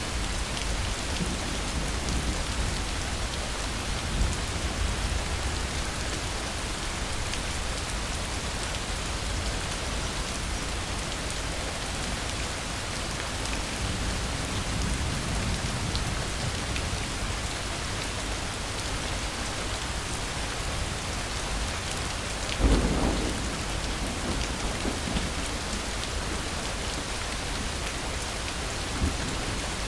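Steady heavy rain falling, with low thunder rumbling; a sharper thunderclap breaks through about three-quarters of the way in, and a smaller one near the end.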